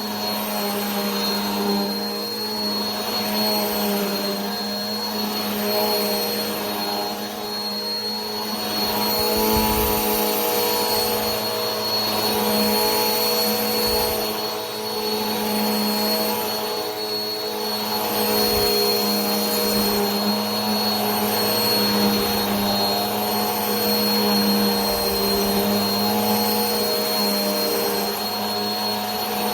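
Vacuum cleaner running steadily: a constant motor whine and hum over a rush of air, with a thin high tone above and a slow, gentle swell in the air noise every few seconds.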